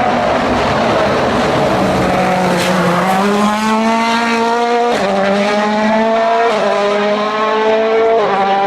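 Rally car's turbocharged four-cylinder engine at full throttle. It sounds rough for the first few seconds, then accelerates hard through the gears, its pitch climbing and dropping sharply at three quick upshifts in the second half.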